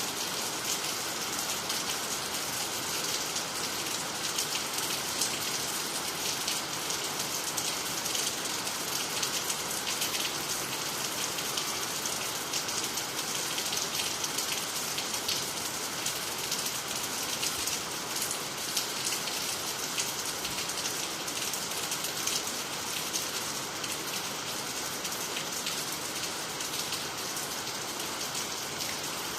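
Steady rain falling, an even hiss with a dense patter of drops striking water, leaves and the ground.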